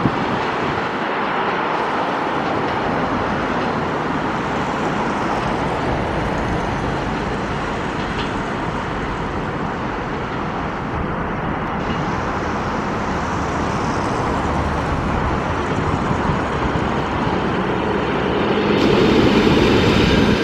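Electric train running on the line, a steady rumble and rush that grows louder near the end.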